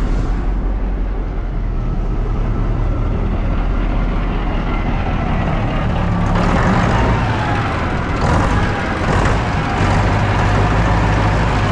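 Rolls-Royce turbo diesel engine running steadily, a little louder and busier from about halfway through.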